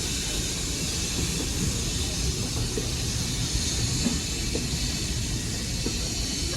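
Steam-hauled train running: a steady low rumble with a constant hiss over it.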